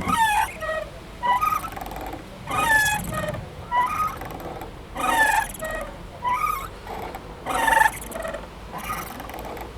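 Playground swing squeaking as it swings back and forth: short squeaks with sliding pitch recur every second or so in a steady rhythm.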